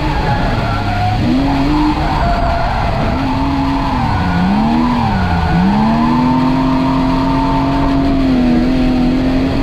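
Drift car engine revving hard, its pitch dropping and rising several times before holding high and slowly climbing, with tyre squeal as the car slides.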